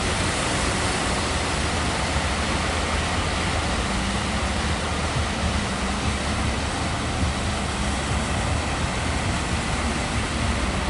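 Steady roar of heavy sea surf breaking, with a faint low drone underneath.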